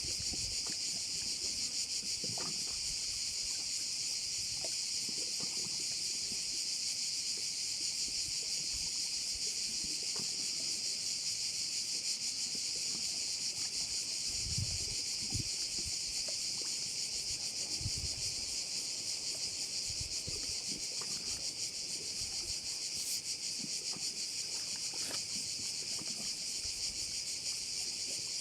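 A dense chorus of crickets chirring continuously in one high, even band, with faint low gusts of wind underneath now and then.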